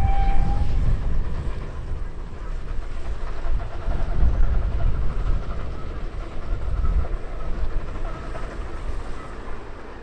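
A locomotive's whistle sounding one held note that ends just under a second in, then a heritage steam train running with a low rumble, loudest in the middle and easing off toward the end.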